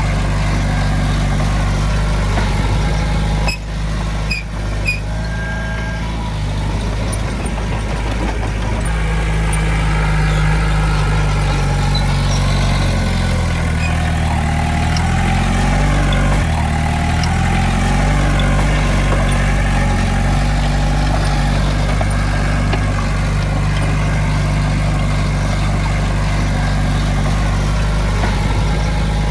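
Heavy diesel engine of earthmoving machinery running steadily, its pitch dipping and climbing back about halfway through as the load changes.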